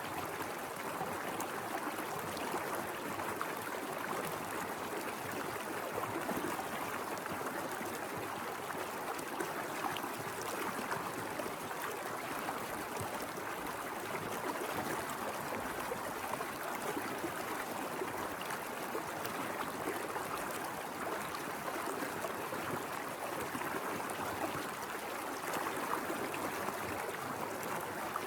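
A mountain stream flowing over rocks: a steady rush of water with fine splashing and gurgling.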